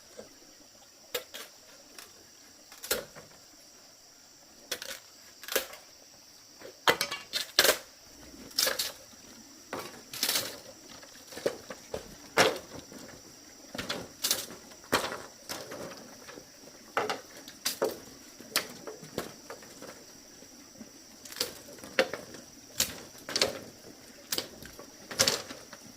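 Irregular sharp clicks and knocks, one or two a second, from hands working with hard material such as bamboo, over a steady high-pitched drone.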